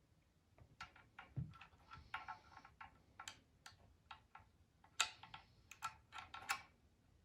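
Light, irregular clicks and clinks of small hard parts being handled during the scooter repair, about fifteen over several seconds, several with a short metallic ring. The sound is faint.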